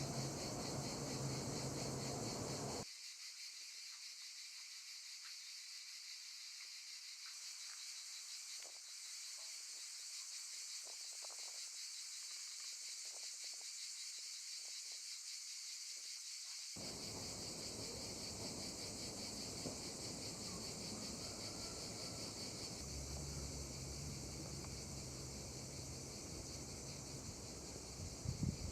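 A steady chorus of insects chirring, such as crickets, high-pitched and unbroken, with a brief knock near the end.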